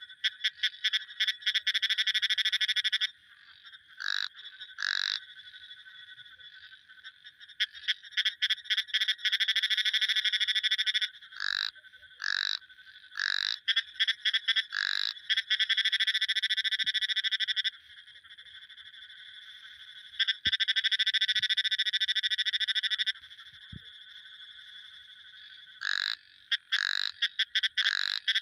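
Frogs calling: long rapid pulsed trills of two to three seconds each, several times over, with short separate croaks that drop in pitch in between. A faint steady chorus lies under the calls.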